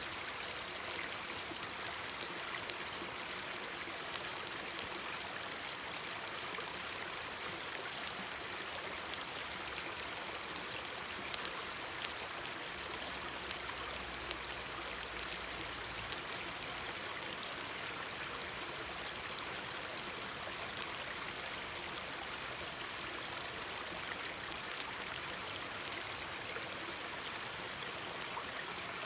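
Mountain stream babbling steadily, with a wood campfire crackling over it in sharp, irregular snaps.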